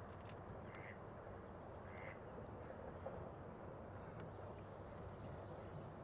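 Faint, steady low background noise with two brief bird calls, about one and two seconds in.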